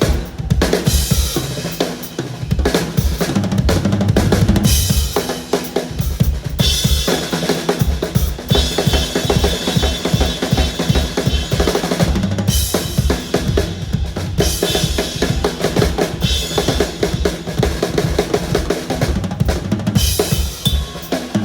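Drum solo on a full drum kit: fast, dense bass drum strokes under snare and tom fills, with stretches of cymbal wash that come and go.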